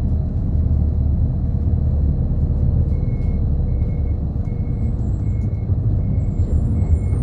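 Route bus heard from inside, its engine and running gear giving a steady low rumble. About three seconds in, a short electronic beep starts repeating roughly every 0.7 seconds.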